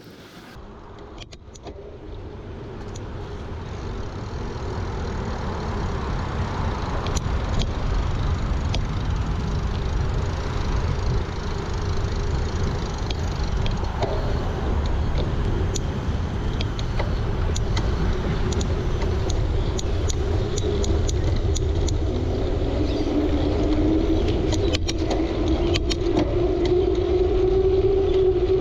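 Steady rush and low rumble heard from a moving bicycle: wind and rolling noise that build up over the first few seconds and then hold steady, with scattered light clicks and rattles. A steady hum joins in about three-quarters of the way through.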